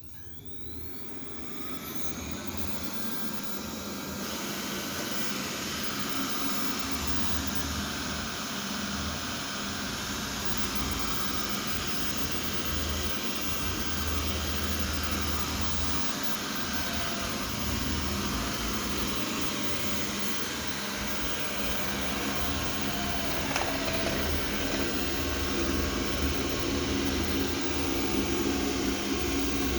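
Xiaomi robot vacuum cleaner starting a cleaning run: its suction fan spins up with a rising whine over the first few seconds, then runs with a steady whir.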